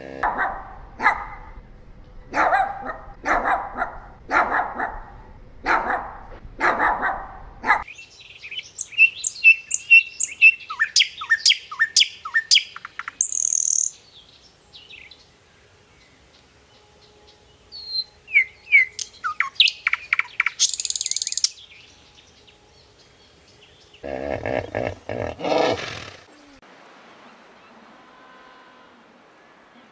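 Animal calls repeated about once a second, then a small bird chirping in rapid, falling notes in two spells, each ending in a brief hiss, and a short run of calls again near the end.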